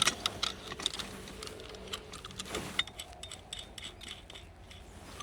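Irregular small metal clicks and rattles from a roof-rack base foot being handled while its clamp screws are loosened.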